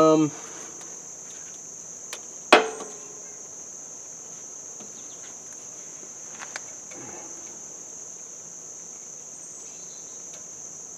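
A steady high trill of crickets, with one sharp knock about two and a half seconds in: a tap on the tractor's parts while lining up the bolts.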